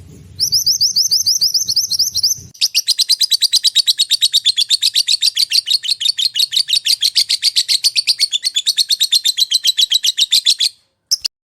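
Songbird song from a masteran training recording. It opens with a string of quick, high, sweeping chirps, about five a second. Then comes a fast, loud rattling trill of about ten notes a second that stops abruptly near the end, followed by one short chirp.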